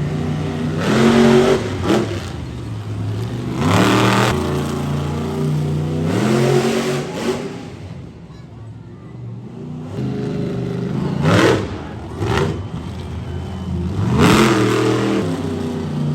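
Monster truck engine revving hard in repeated throttle bursts, its pitch climbing and falling with each burst. It drops to a lower, quieter run for a couple of seconds about halfway through.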